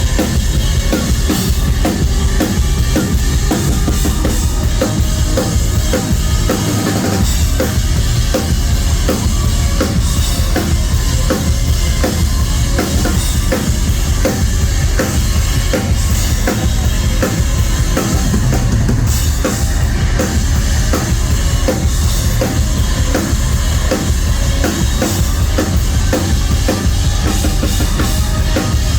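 Live rock band playing loud, with fast, driving drum-kit beats: bass drum, snare and cymbals under the band, heard from the crowd through a phone's microphone.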